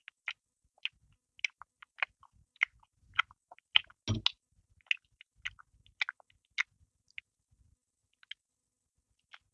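Mouth chewing a crusty bread roll: a run of short, wet clicks and smacks about twice a second, with one louder, deeper sound about four seconds in. After about seven seconds it thins to a few scattered clicks.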